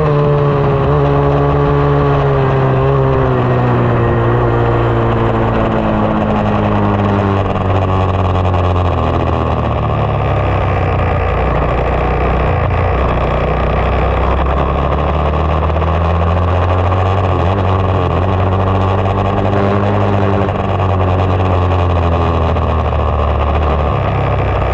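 2020 SSR 189 dirt bike's single-cylinder four-stroke engine running under way, the revs falling off over the first several seconds, then climbing again past the middle and easing back down near the end.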